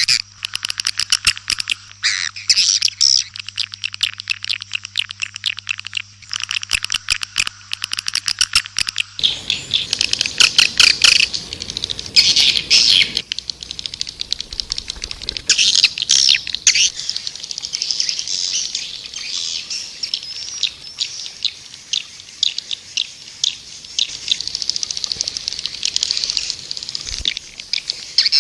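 Swiftlets twittering in a dense, rapid stream of high chirps and clicks, a swiftlet call recording of the kind played to lure swiftlets to nest. A low hum under the first nine seconds stops where the recording changes to a rougher background.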